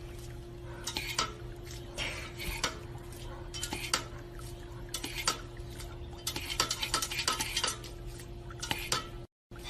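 Irregular light clinks and taps of dishes or cutlery over a steady low hum. The sound cuts off abruptly near the end.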